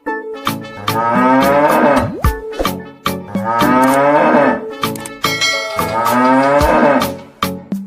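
Cow mooing three times, each moo a long call of about a second and a half, over background music with a steady beat.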